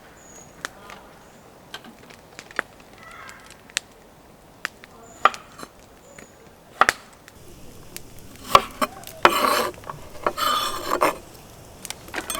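Camp cooking prep: scattered knocks and clicks of a knife and utensils on a board and cookware, with two longer rustling or scraping noises near the end.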